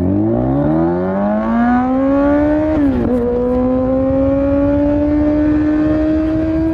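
Kawasaki Z900's inline-four through an Akrapovic full exhaust system, accelerating hard. The revs climb for about three seconds, drop suddenly at an upshift, then rise slowly through the next gear.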